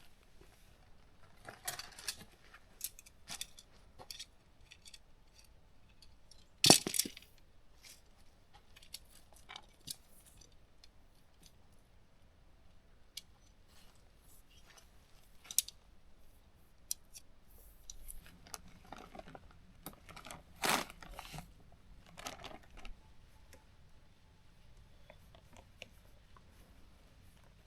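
Tent gear being handled during pitching: scattered clicks and clinks with rustling, and sharp clatters about seven seconds in and again near twenty-one seconds.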